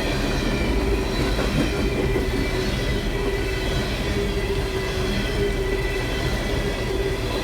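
Long freight train rolling past, its cars' wheels running on the rails in a steady rumble, with a steady ringing squeal from the wheels.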